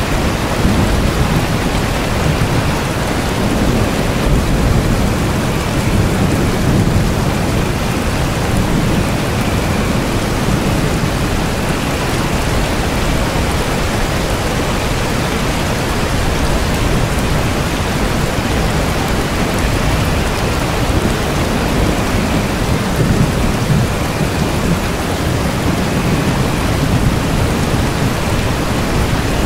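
Steady heavy rain: a dense, even hiss with a deep low rumble underneath that stays constant throughout.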